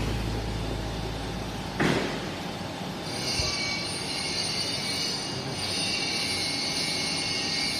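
Machinery running with a steady hiss. A high-pitched whine joins about three seconds in, and there is a short sharp knock about two seconds in.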